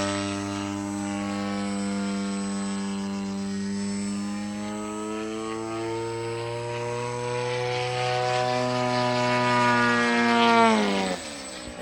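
A 120cc gasoline engine and propeller of a large radio-controlled airplane running steadily in flight, its pitch rising slightly and getting louder, then dropping sharply about a second before the end.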